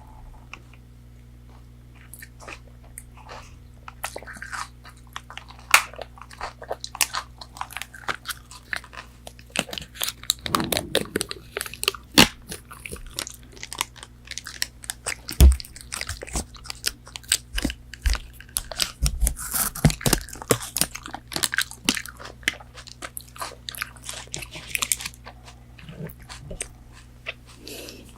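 Close-miked eating of crispy fried McDonald's fast food: crunchy bites and chewing with wet mouth sounds, in dense crackly clicks that pick up a couple of seconds in, with a few dull low thumps in the middle.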